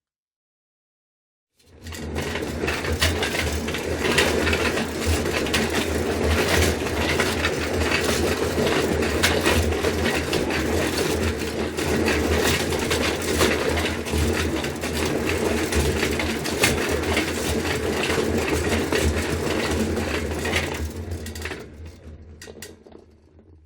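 A wheeled trolley rolling, its wheels and frame rattling steadily with many small clicks. It starts about two seconds in and fades away near the end.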